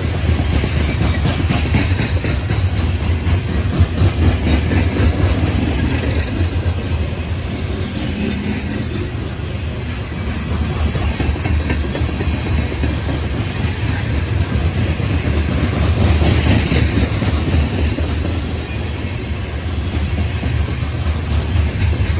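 CSX coal hopper cars rolling past on the rails: a steady rumble of steel wheels with rapid clickety-clack over rail joints, swelling and easing in loudness as the cars go by.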